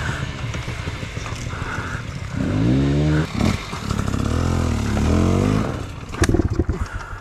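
Enduro dirt bike engine revving in bursts over rough ground, its note climbing and falling twice. Near the end the engine note dies away and a run of sharp knocks and scrapes follows.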